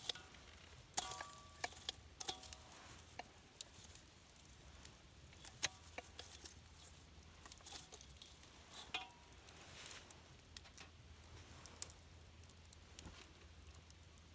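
Scattered light clicks and taps, a few of them with a short ringing clink like metal or glass being knocked, over a faint steady hum.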